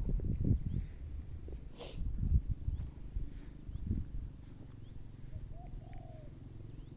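Insects droning steadily in a high, even tone, over irregular low rumbles and bumps from the microphone being handled or carried, with one sharp click about two seconds in.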